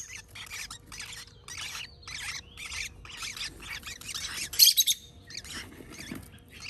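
Baby parrot chicks giving short, raspy, repeated calls, about two a second, with a louder cluster a little after halfway. These are the harsh rasping calls of unweaned parrot nestlings.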